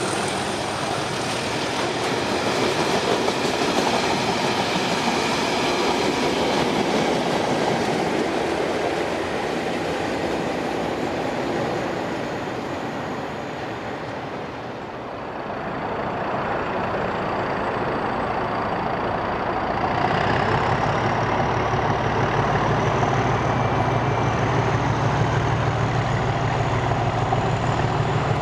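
Class 37 diesel locomotives working a train past, with the rumble and clatter of the train on the rails. About two-thirds of the way through, a steady deep engine drone takes over, with a thin whistle rising slowly above it.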